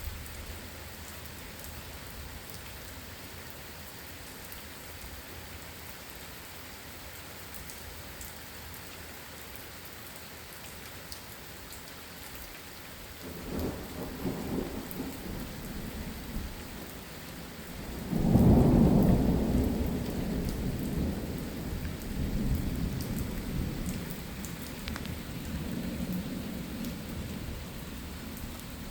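Steady rain falling, with a low rumble of thunder about halfway through, then a louder peal a few seconds later that rolls on and slowly fades.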